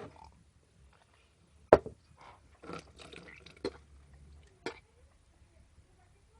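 A single sharp knock about two seconds in, then short wet liquid and swallowing sounds with a couple of smaller clicks, as raw egg and water are taken down.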